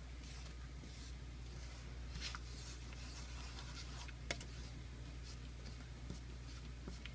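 Faint scratching and scraping of a utensil stirring melting sugar in a pan, with a few small clicks, over a steady low hum.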